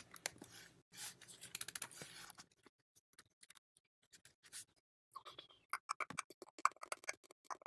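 Faint rapid clicks and taps on a computer keyboard, in two runs: one in the first couple of seconds and another from about five seconds in, with scattered single clicks between.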